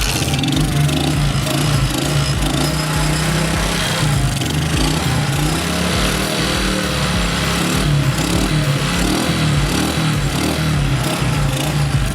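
Motorcycle engine running steadily after being kick-started.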